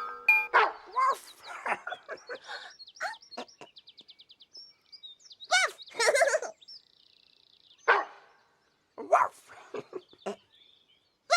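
A dog barking in short separate barks, with spaced clusters through the stretch, and birds chirping behind it.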